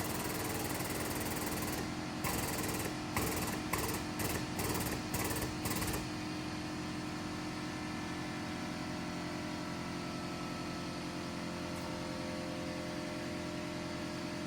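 Frame machine's hydraulic pump running under load as the pulling chain is tensioned. It stutters in quick pulses for a few seconds, then runs steadily and cuts off suddenly.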